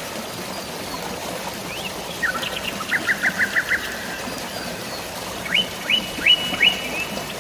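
Birds chirping over a steady hiss of drizzling rain and flowing water: a quick run of about half a dozen chirps two to four seconds in, then a few rising notes near the end.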